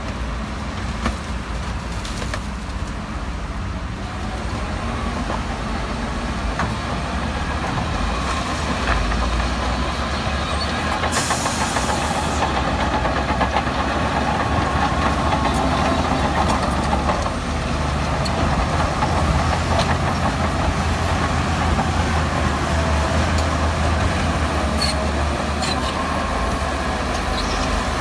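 Heavy diesel earthmoving machinery running steadily, its engine growing slightly louder as it works, with a short hiss about eleven seconds in.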